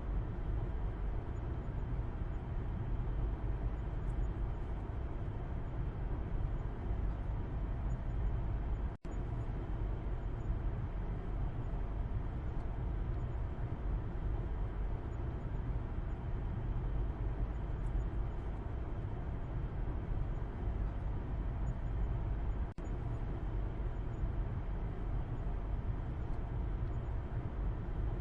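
Steady road and engine rumble of a moving car heard from inside the cabin at the back seat: a deep, even rumble with a soft hiss of tyre noise above it. The sound cuts out for an instant twice.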